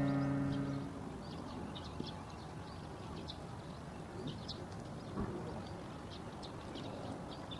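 Small birds chirping in short, high calls, over and over, above a steady low outdoor hiss. Background music fades out in the first second.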